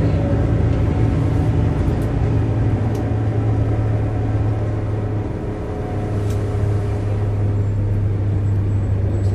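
Volvo B7RLE bus's diesel engine running with a steady low drone, dipping briefly about halfway through.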